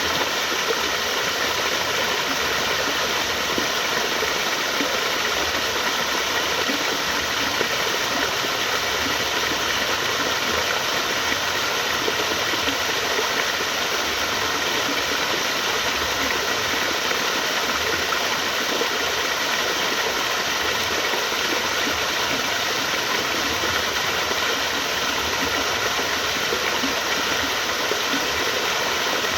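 Flowing water, a steady, even rush with no breaks or single splashes.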